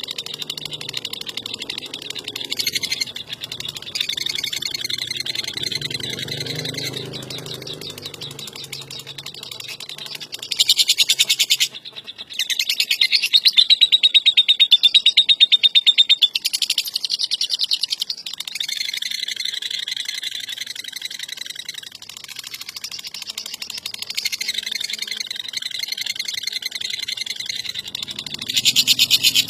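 Lovebird giving its long 'ngekek' chatter: a rapid, high-pitched rattling trill in long unbroken runs, swelling louder about a third of the way in and again near the end.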